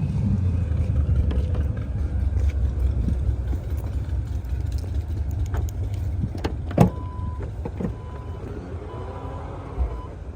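Low rumble of wind on the microphone, then a single sharp click about seven seconds in, followed by a car's electronic warning beep sounding in short runs.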